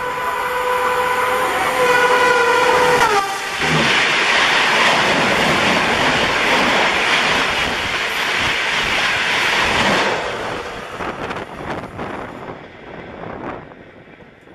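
Gatimaan Express electric locomotive sounding a long, steady horn as it closes in at about 160 km/h. The horn's pitch drops as the locomotive passes and the horn cuts off about three seconds in. A loud rush of the coaches and wheels passing follows, with rail clicks, and it fades away over the last few seconds as the train recedes.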